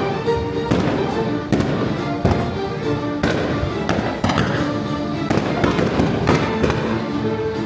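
Fireworks bursting about once a second over sea, sharp bangs mixed with a music soundtrack that plays throughout.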